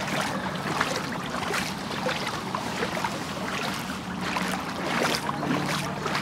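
Splashing through shallow floodwater: repeated irregular sloshes over a steady rush of water.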